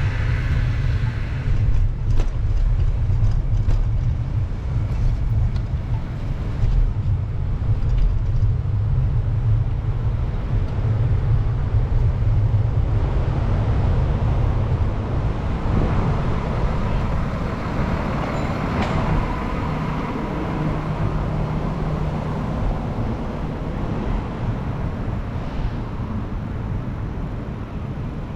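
Wind rumbling on the microphone during a bicycle ride, with city street traffic going by. About halfway through, a louder vehicle passes close with a faint high whine.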